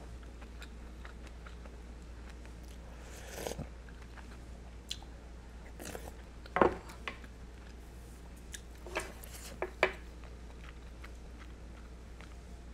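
Close-miked chewing and mouth sounds of someone eating budae jjigae (Korean army base stew), with a few short clicks of a spoon and chopsticks against the pot, the sharpest about six and a half seconds in. A low steady hum lies under it all.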